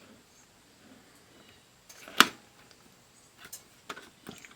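One sharp click about two seconds in, then a few fainter clicks and taps near the end: the plastic multimeter being handled on the bench as it is opened up.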